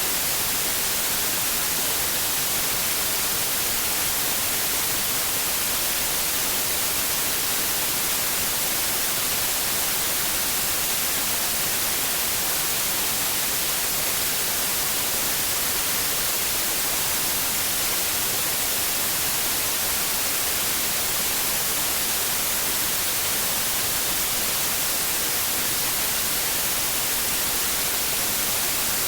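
Steady white noise: an even, unbroken hiss, strongest in the high frequencies, that does not change.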